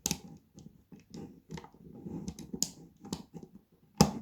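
Plastic Lego bricks clicking and rattling as pieces are pressed on and the model is handled. There is a sharp click at the start and a louder one near the end.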